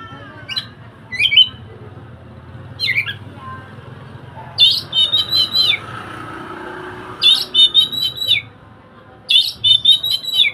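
Oriental magpie-robin (kacer) in full song: a few single sharp whistled notes, then three repeated phrases of quick chirping notes, each lasting about a second, the last ending right at the close.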